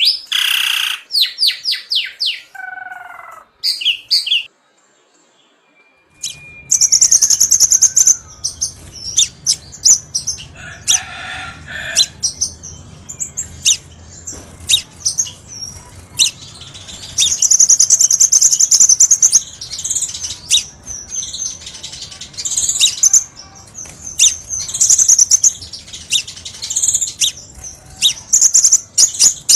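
Crimson sunbird song: rapid, high, sharp chirps and trills. The song stops for about a second and a half around four seconds in. It then starts again, denser and with a faint low hum behind it, as if from another recording.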